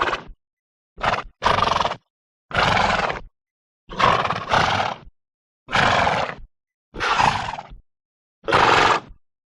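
A horse's short vocal sounds, about eight in a row, each under a second long and separated by complete silence.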